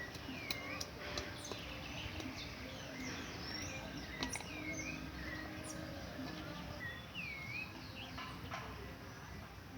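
Birds calling outdoors: short whistled notes that dip and rise again, repeated every couple of seconds, with scattered sharp clicks over a steady background hum.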